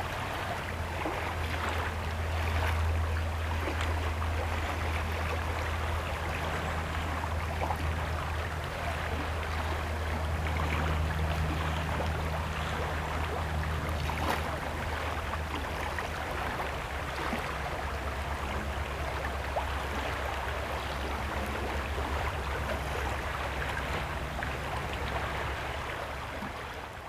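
Water running and trickling with many small ticks and crackles, over a steady low hum.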